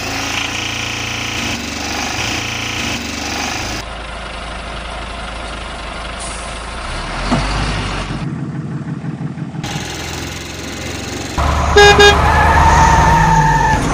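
A steady low rumble that changes abruptly every few seconds. Near the end, a vehicle horn sounds: two short honks, then a held blast, the loudest part.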